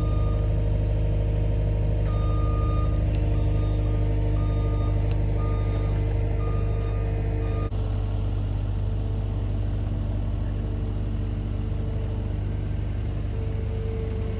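A machine's engine running steadily while a back-up alarm beeps about once a second for several seconds; the beeping stops at an abrupt cut about halfway, leaving the engine running alone.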